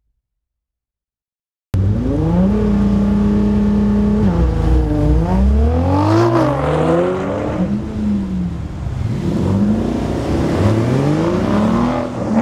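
A performance car's engine and exhaust cut in suddenly after a second and a half of silence. The engine holds a steady pitch for about two seconds, then revs up and down several times.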